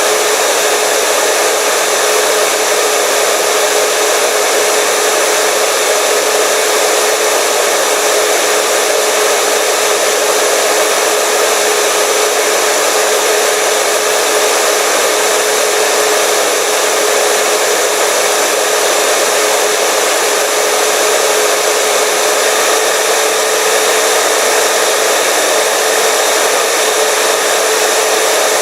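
Hair dryer running steadily: a constant rush of blown air with a steady motor whine, unchanging throughout.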